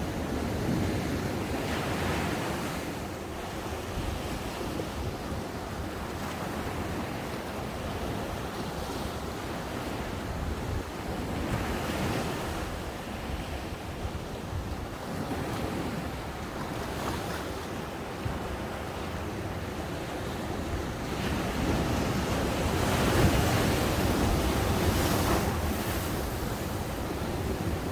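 Ocean waves breaking on a beach and washing up the shore, swelling and easing every few seconds, loudest in a surge a little past the middle, with wind buffeting the microphone.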